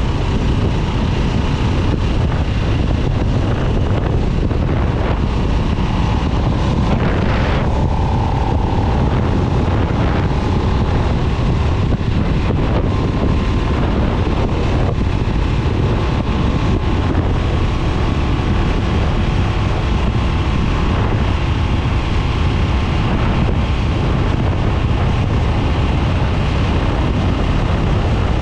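2022 Harley-Davidson Nightster's Revolution Max 975T V-twin running steadily under way, with heavy wind noise buffeting the microphone.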